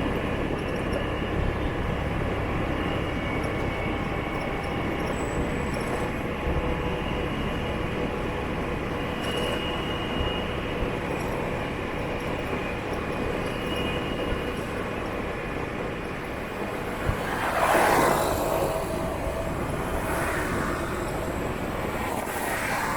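City motorbike traffic heard while riding a scooter: a steady rumble of engines and road noise, with a louder vehicle passing close by a little over three-quarters of the way through and smaller swells from others after it.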